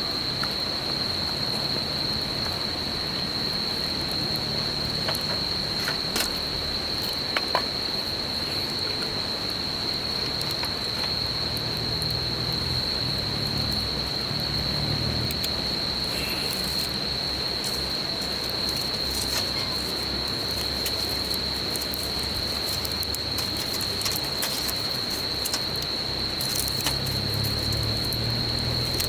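Insects trilling steadily at one high pitch over the continuous rush of a babbling river, with occasional sharp crackles and pops from a wood campfire.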